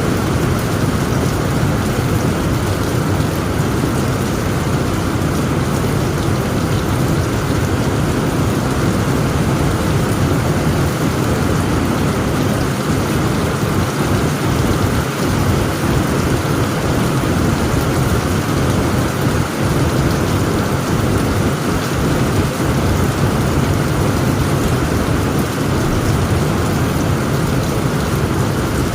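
Heavy rain falling steadily on a tent roof, with a low, unbroken rumble of thunder beneath it and no sharp claps.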